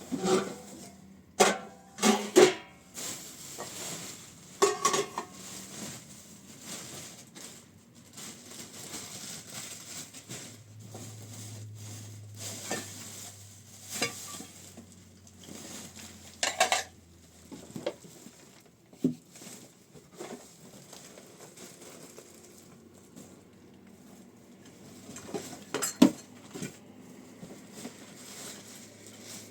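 Irregular clinks and knocks of hard objects being handled, some with a short metallic ring, heard loosely every second or two with quieter stretches between. The loudest knock comes about 26 seconds in.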